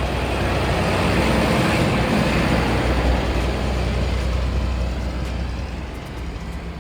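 Snowplow truck driving past: its low engine rumble and road noise grow to their loudest about two to three seconds in, then fade away.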